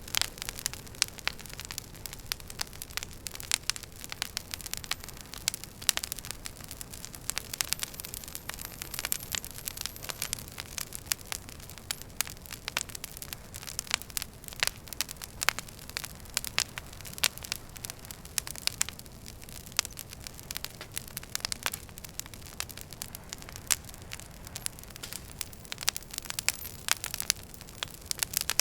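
Wood fire burning in a fireplace: a steady low hiss with many sharp, irregular crackles and pops from the burning logs.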